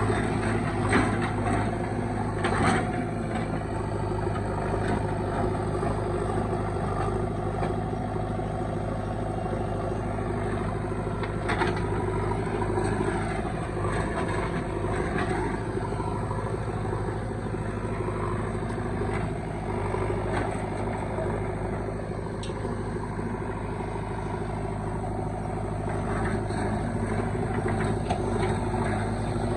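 Heavy diesel machinery engine running steadily at an even pitch, with a few sharp knocks near the start and again after about ten seconds.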